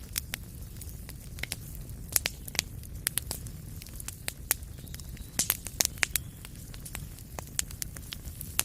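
Wood fire crackling in a fireplace: irregular sharp pops and snaps, a cluster of them about five to six seconds in, over a steady low rumble of the flames.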